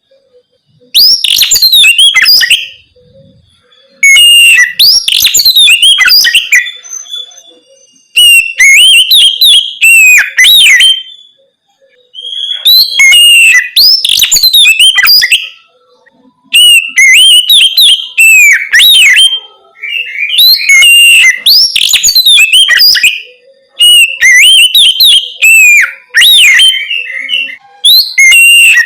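Oriental magpie-robin (kacer) singing loud whistled and chirping phrases in the ngeplong style, with rapid swoops up and down in pitch. It sings in bursts of two to three seconds separated by short pauses, about seven phrases in all.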